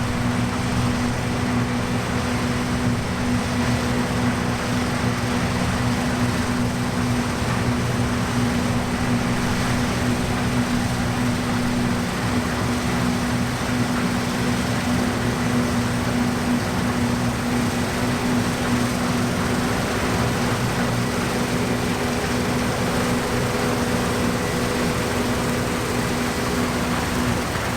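New Holland CX 8.70 combine harvester running steadily while cutting wheat, heard from the cab: an even engine and machinery drone with a constant low hum.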